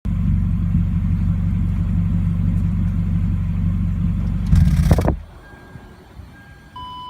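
Toyota Altezza's 3S-GE four-cylinder engine idling steadily through a 5zigen Super Lap aftermarket exhaust, with a brief louder surge about four and a half seconds in before the engine sound cuts off suddenly at about five seconds. A short electronic beep sounds near the end.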